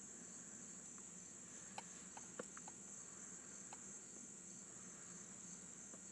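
Near silence: a faint, steady, high-pitched insect chirring, with a few soft clicks about two to four seconds in.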